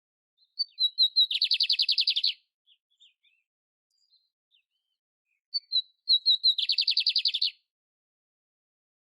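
Canary (canário império) singing two phrases about four seconds apart. Each opens with a few clear chirps and runs into a rapid trill lasting about a second, with soft twitters in between.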